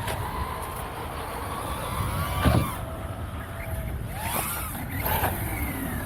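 Electric motors of radio-controlled models whining and rising and falling in pitch as they speed up and slow down, with a sharp swoosh about two and a half seconds in and more swooping passes near the end.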